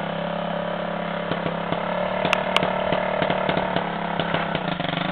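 Motocross dirt bike engine running at a fairly steady speed, with a run of sharp clicks and ticks starting about a second in.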